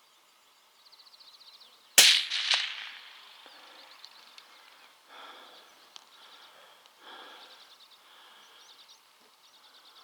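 A single .223 Remington rifle shot about two seconds in, followed by a short echo that dies away over about a second.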